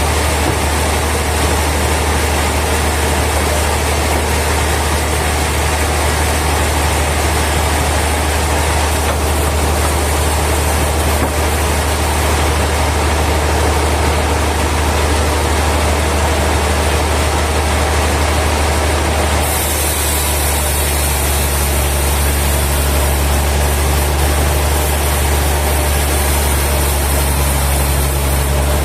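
Heavy sawmill machinery running steadily with a loud, deep hum. About twenty seconds in, the tone changes and a high hiss joins it.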